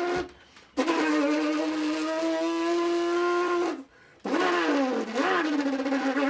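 Race-car engine imitated with the voice: long droning notes, broken twice by short pauses for breath. The last note wavers down and back up in pitch, like revving.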